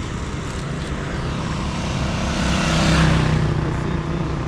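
A motor vehicle driving past on the road, its engine and tyre noise growing to a peak about three seconds in and then fading away.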